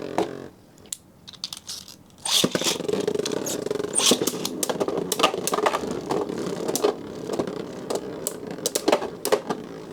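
A few scattered clicks, then Beyblade Burst tops launched about two seconds in: they spin in a plastic stadium with a steady whirr and many sharp clacks as they strike each other.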